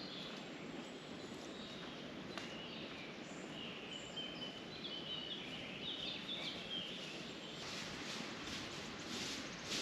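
Forest ambience: a steady outdoor hiss with birds chirping now and then, and a rustling that sets in near the end.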